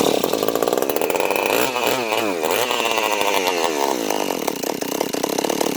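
Stihl MS 192 TC two-stroke top-handle chainsaw firing up and running, revved up and down a couple of times about two seconds in. The run shows the ignition coil works after it was suspected of being bad or wet.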